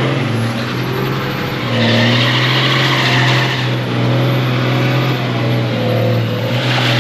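A car engine held at high, steady revs while its tyres spin and hiss on wet pavement during a doughnut; the tyre hiss swells about two seconds in and again near the end.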